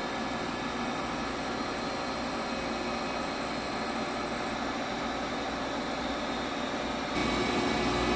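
Tschudin HTG310 universal cylindrical grinder running under power, a steady machine hum with several steady tones. About seven seconds in it steps up louder, with a deeper rumble added.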